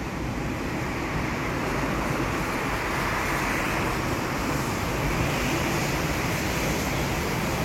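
Electric commuter train running at speed: a steady rumble and rushing noise, a little louder from about a second in.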